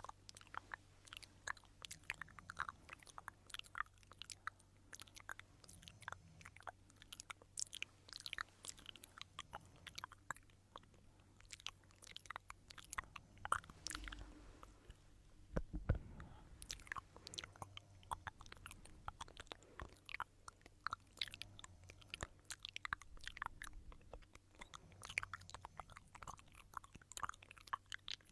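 Stones being rubbed and knocked together close to the microphone: a quiet, irregular run of small crisp clicks and grinding scrapes, with a faint low hum under it.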